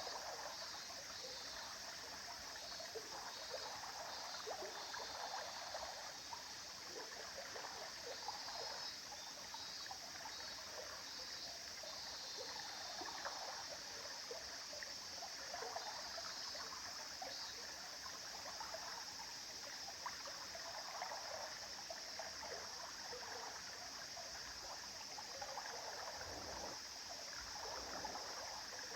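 River water flowing over rocks, with a steady rush and a continuous burble of small splashes and trickles.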